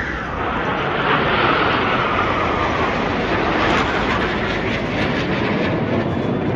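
Aircraft flying past low and loud at an air show: a heavy rushing roar with an engine whine that falls in pitch over the first few seconds as it goes by.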